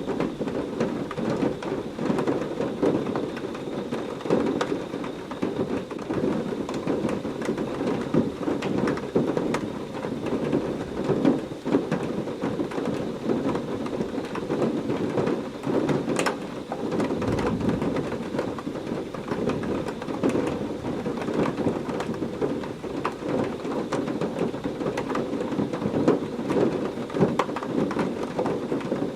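Heavy rain falling steadily, a dense patter of drops with a low, rolling thunder rumble under it. One sharper drop tick stands out about sixteen seconds in.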